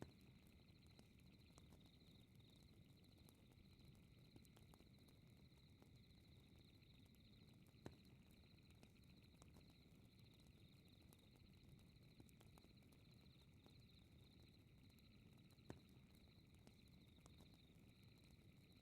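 Faint fireplace crackling: a low rumble with scattered small crackles and two sharper pops, about eight and sixteen seconds in. Under it runs a steady high, rapidly pulsing chirr of night ambience.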